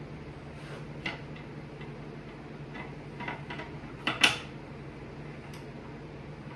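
A few light clicks and knocks of metal handle hardware being handled and fitted to a wooden drawer front, with a louder double knock about four seconds in. A steady low hum runs underneath.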